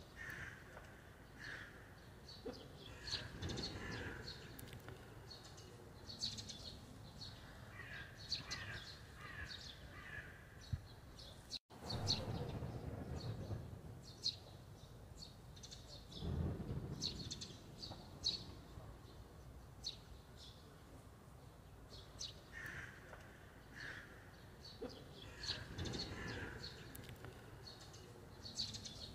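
Small birds chirping and calling in short, repeated notes, with low rumbling noise swelling up now and then. The sound cuts out for an instant about twelve seconds in.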